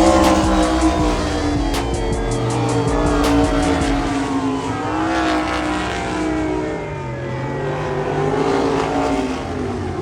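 Sprint car engines running hard on track, several at once. Their pitch rises and falls as the cars accelerate, lift and pass, with a heavy low rumble in the first few seconds.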